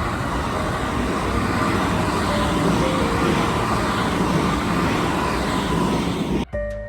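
Kintetsu Nara Line electric train running past, a loud steady rush of wheel and rail noise that cuts off suddenly near the end, with background music faintly underneath and then alone.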